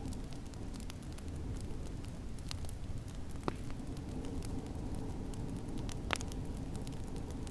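Wood fire in a fireplace crackling with frequent small snaps, and two louder pops about three and a half and six seconds in, over a low steady rumble.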